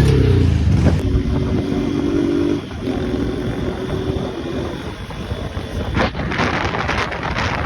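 Motorcycle engine running while riding, its pitch falling off after a rev at the start and then holding fairly steady. About six seconds in, a rushing, rattling noise grows over the engine.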